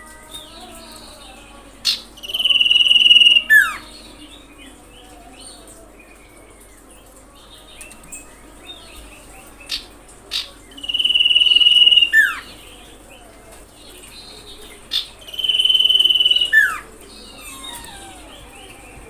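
Common iora (cipoh) singing three times: each phrase a sharp note, then a long steady high whistle of over a second that ends in a quick downward slur. Fainter chirps and an insect-like high hiss go on between the phrases.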